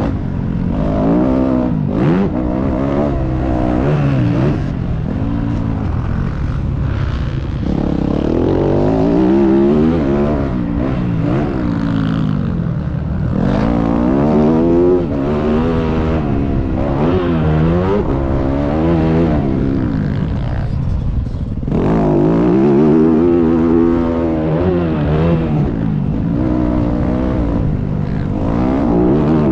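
Motocross dirt bike engine revving hard and easing off again and again, its pitch climbing and dropping every second or two as the rider accelerates and rolls off the throttle on the track, over a steady rumbling noise.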